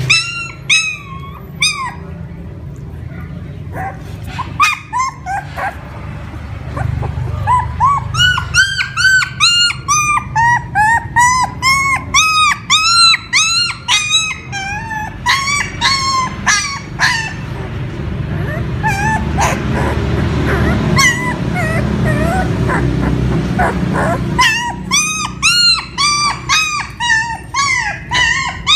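A dog whimpering and yelping: runs of short, high, arching cries, about two a second, over a steady low hum.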